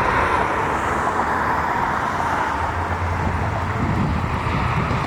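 Steady rumble of jet aircraft engines, with a high engine whine that fades out about two seconds in.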